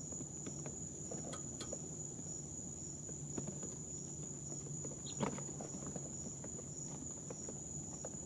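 Young chicks shuffling in brooder bedding: scattered light ticks and scratches, with one louder tick about five seconds in, over a steady high-pitched whine.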